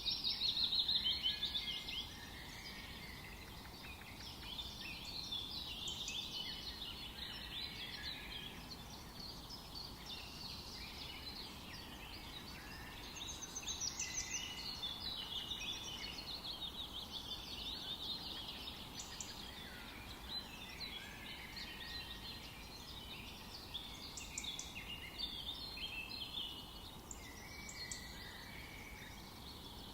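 Several songbirds singing and chirping at once, a dense chorus of overlapping high trills and calls, loudest in the first two seconds.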